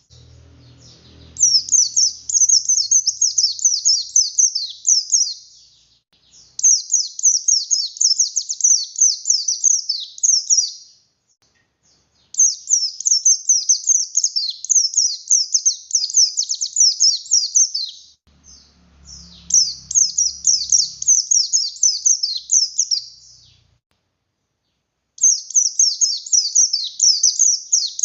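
Oriental white-eye of the buxtoni race (pleci buxtoni) singing in five long bursts of fast, high chattering notes, with short pauses between them.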